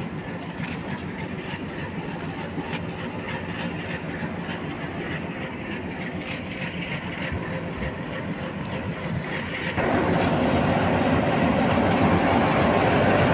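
Passenger train at a station platform: a steady rumble and rattle of the coaches, which gets abruptly louder about ten seconds in.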